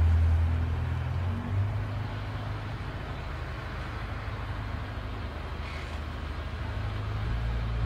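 Car engine running at low speed as the car rolls slowly and brakes, heard as a low steady rumble. It is loudest in the first second or so, then settles lower.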